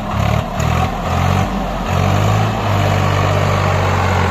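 Swaraj 744 FE tractor's diesel engine running loud, its note rising and falling over the first two seconds, then holding steady.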